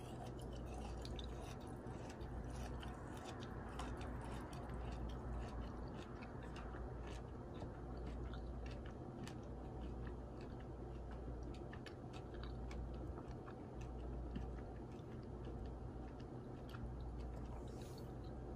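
Someone chewing a crunchy nut cluster of chopped walnuts, macadamias and pecans, with many small irregular crackles and crunches, over a low steady hum.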